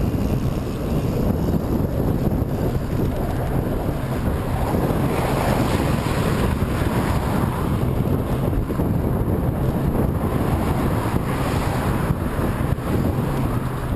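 Steady, heavy wind noise buffeting the microphone while moving into a headwind.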